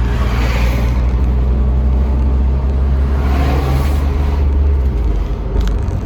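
1999 Jeep Wrangler TJ being driven: steady low engine rumble with road noise that swells twice. No knocking from the rear suspension is heard, a sign that the repaired rear lower control arm has cured the knock.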